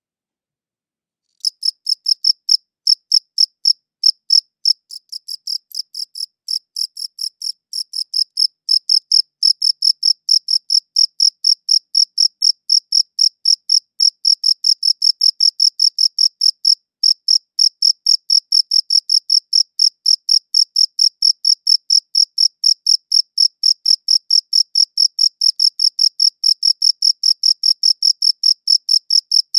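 A cricket chirping: high-pitched chirps repeated evenly at about three a second, starting abruptly after a second and a half of silence and softer and less even for a few seconds before settling into a steady rhythm.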